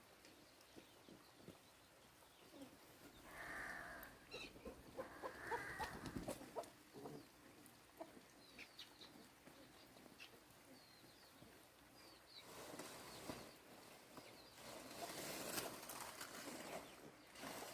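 Quiet farmyard: faint rustling with scattered short bird chirps.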